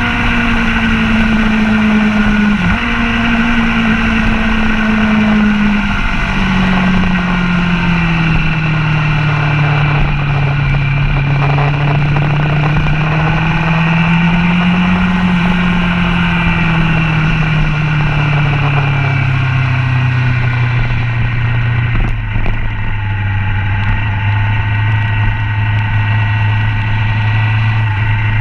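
Sport motorcycle engine heard from a camera mounted on the bike while it laps a racetrack. The engine note drops sharply twice in the first few seconds, rises and falls through the middle, then settles lower and holds steady near the end.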